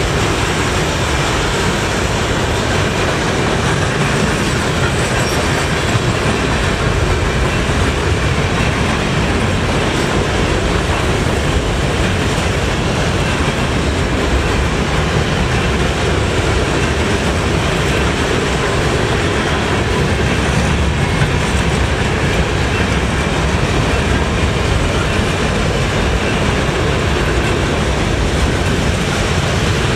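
Freight train of covered hopper cars rolling past close by: a steady, loud rumble and clatter of steel wheels on the rails.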